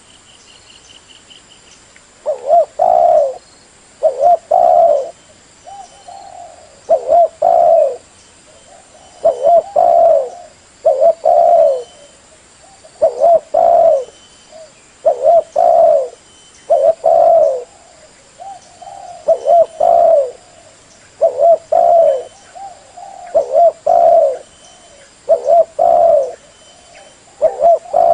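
Spotted dove cooing over and over, a decoy call for luring wild doves. Short phrases of two or three low coos come about every two seconds.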